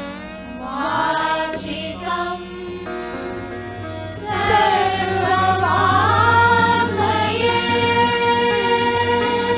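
Voices singing a devotional chant in Indian classical style over a steady drone. The singing swells louder about four and a half seconds in, with long held notes toward the end.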